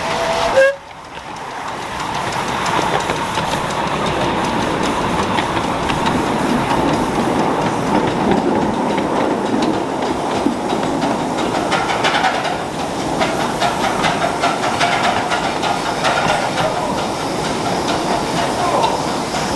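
Miniature railway train running on the track: a steady rumble and clatter of wheels with quick clicks over the rail joints. Less than a second in the sound cuts out suddenly, then picks up again over a couple of seconds.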